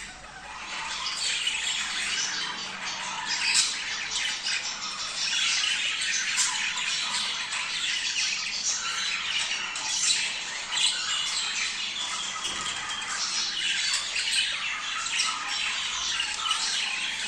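A flock of budgerigars chattering, many short chirps and warbles overlapping without a break: the busy calling of budgies in breeding condition.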